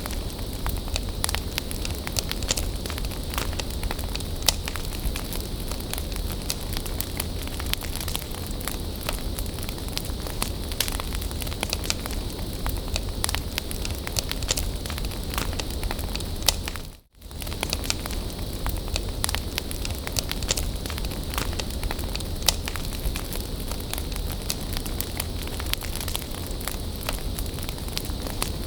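Bonfire burning, with steady crackling and frequent sharp pops over a low rumble. The sound cuts out completely for a split second about two-thirds of the way through.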